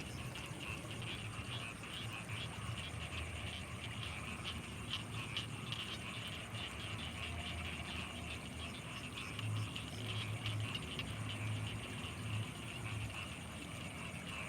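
A dense, steady frog chorus from rice paddies at night, many rapid high calls overlapping, with a deeper low pulsing that grows stronger about two-thirds of the way through.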